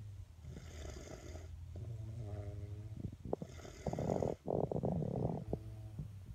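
Sleeping baby snoring: raspy breaths recurring about every three seconds, some carrying a pitched, humming tone, the loudest a little before the middle. A steady low hum runs underneath.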